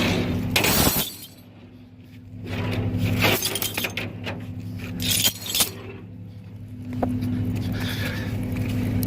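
Steel tow chain and hooks clanking and rattling in several sharp bursts, over a truck's diesel engine idling steadily.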